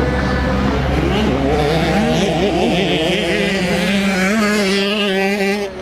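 Several 65cc two-stroke motocross bikes running on the track, their engine pitch rising and falling as the riders rev and shift, several engines at once over a steady low hum. The engines drop away a little near the end.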